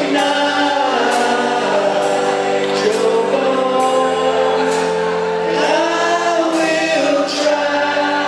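Live band music with a group of voices singing together, sustained and unbroken.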